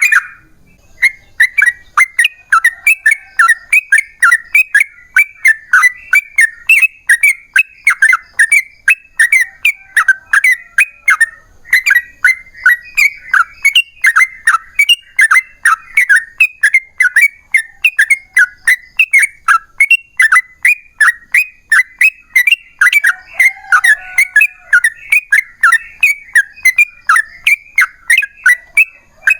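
Yellow-vented bulbul (trucukan) singing a long, unbroken run of short, chattering whistled notes, about two to three a second, with a brief pause about eleven seconds in.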